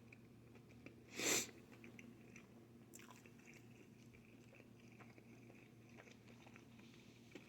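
A person chewing pizza with faint, small wet clicks of chewing. A little over a second in there is one short, loud, breathy hiss.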